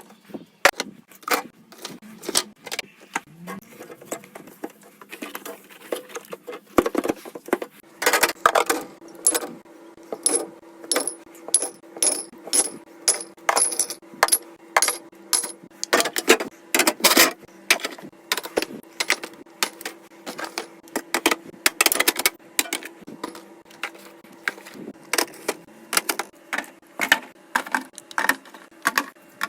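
Rapid, sped-up clicking and clattering of containers and kitchen items being handled and set down while a refrigerator is cleaned and organised.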